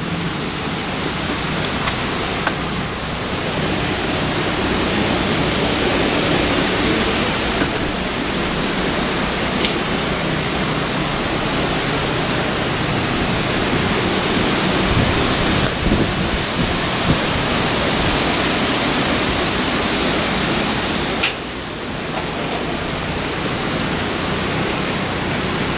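Steady loud rushing noise, with a few brief high chirps now and then.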